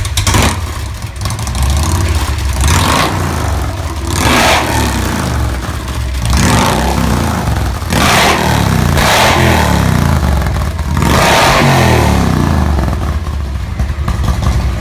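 Harley-Davidson touring motorcycle's V-twin engine running through Cobra NH slip-on mufflers and revved about five times, each rev rising and falling back to idle. The exhaust note is loud and deep.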